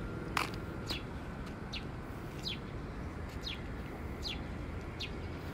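A bird calling over and over, short falling chirps a little more than one a second, over a steady low outdoor hum, with one sharp click shortly after the start.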